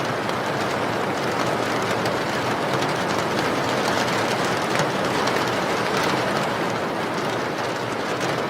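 Steady rain falling, an even, unbroken hiss with scattered individual drop ticks.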